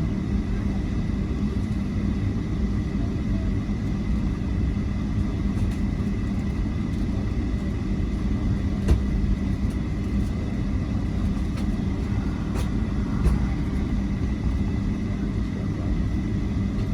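Airliner cabin noise: a steady low rumble with a faint constant whine, broken by a couple of light clicks in the second half.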